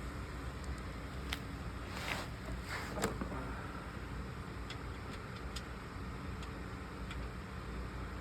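Hand work on a cartridge oil filter housing: a few sharp clicks and a couple of short scrapes, with scattered light ticks, over a steady low hum.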